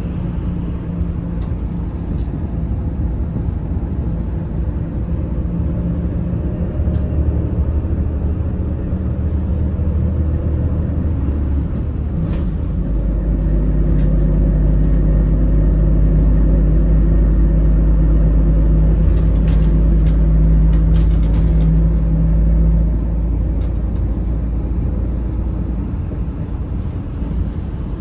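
Daewoo FX116 coach's diesel engine running under way, a steady low drone. About twelve seconds in the engine note deepens and grows louder as it pulls harder, then eases back a little past twenty seconds in.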